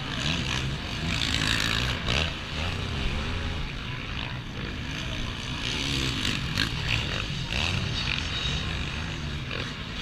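Motocross bikes' engines running and revving, their pitch rising and falling over a steady rumble.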